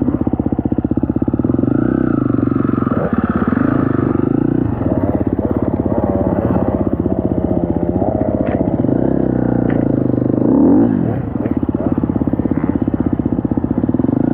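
Four-stroke dirt bike engine running under load, its revs rising and falling as it is ridden, with a few sharp knocks about two-thirds of the way through.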